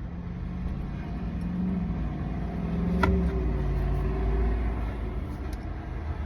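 Car engine and road rumble heard from inside a moving car, the engine note rising a little and then easing off. There is one sharp click about three seconds in.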